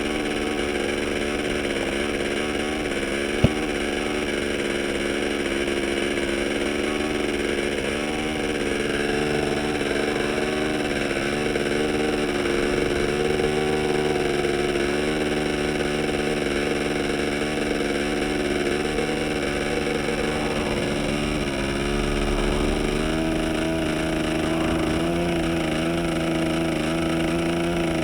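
OS 15LA model two-stroke engine running as a diesel on a propeller, a steady high buzz whose pitch shifts slightly a couple of times. One sharp click about three and a half seconds in.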